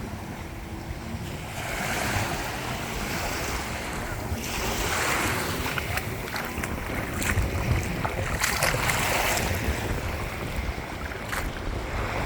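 Small waves washing in over shallow water and sand, surging every few seconds, with wind rumbling on the microphone and a few short splashy clicks.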